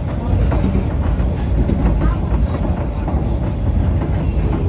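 Passenger train in motion: a steady low rumble of wheels on the track, with scattered short clicks from the rails.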